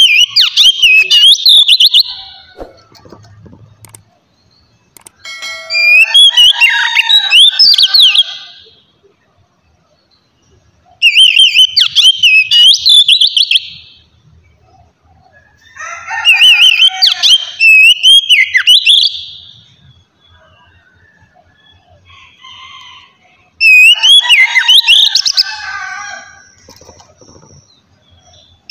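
Oriental magpie-robin (kacer) singing loud, varied whistled phrases with rapid pitch sweeps, in five bouts of a few seconds each separated by short pauses: the clear 'ngeplong' song used to rouse other magpie-robins into singing.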